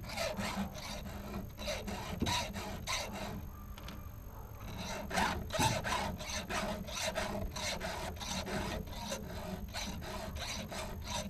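Hand file rasping across chainsaw chain cutters in quick, even strokes, about three a second, with a short pause about four seconds in. It is a quick touch-up of cutters that struck nails.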